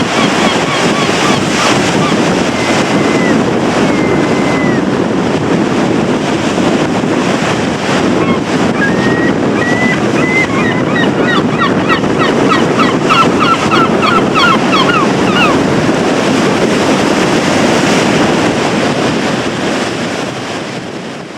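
Stormy surf of the Baltic Sea breaking steadily, with wind buffeting the microphone. Gulls call over it: a few calls near the start and a quick run of repeated calls in the middle.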